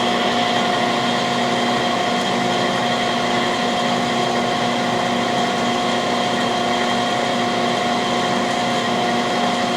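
Cam grinding machine running steadily: a constant motor-and-spindle hum with several fixed whining tones and no change in pitch or level.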